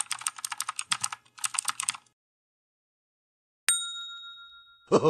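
Fast typing on a computer keyboard, a quick run of key clicks for about two seconds. After a short silence a single bright bell ding rings out and fades, and a laugh starts right at the end.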